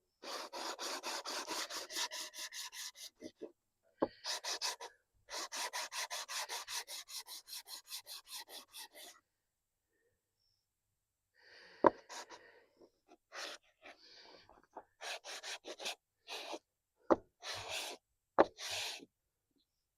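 Quick back-and-forth rubbing strokes of a metal part on wet sandpaper, about six a second, in two long runs with a short pause between. Then come slower, scattered strokes and a few sharp knocks near the end. The part is being lapped flat, which shows up its high spots.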